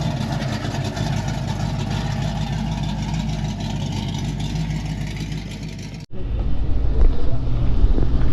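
Vehicle engine running steadily with a low hum. About six seconds in, the sound cuts off abruptly and a louder, deeper rumble takes over.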